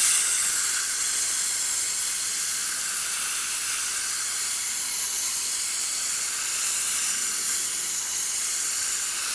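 Steel cleaver edge grinding against an 80-grit abrasive, a steady hiss, to reshape a chipped bevel. It is slightly louder in the first second and keeps going without a break.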